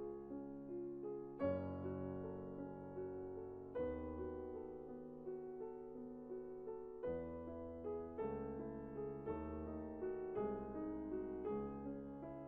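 Soft background piano music: sustained chords with a new chord or bass note struck every second or two, each fading slowly.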